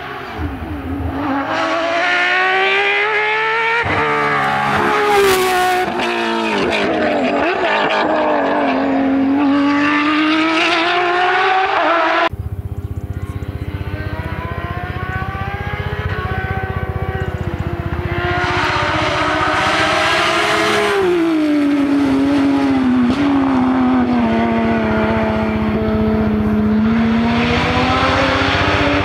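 Porsche 911 rally car's flat-six engine driven hard, its pitch climbing through the revs and dropping at each gear change or lift. The sound cuts abruptly about twelve seconds in to another run of the same kind.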